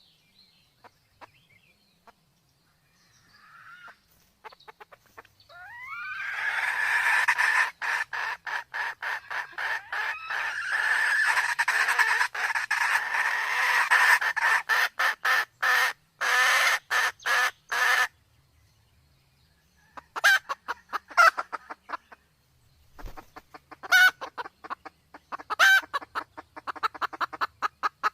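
Red junglefowl clucking and cackling in a long, fast series of short calls. The series starts about six seconds in and lasts some twelve seconds, then returns in shorter bursts near the end.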